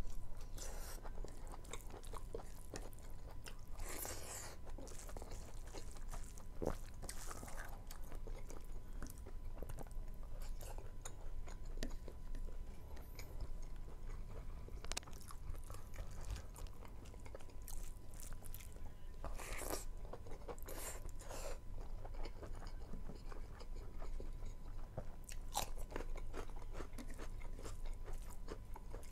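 A person chewing and eating rice with buffalo meat and intestines by hand: wet mouth smacks and crunches that come at irregular intervals.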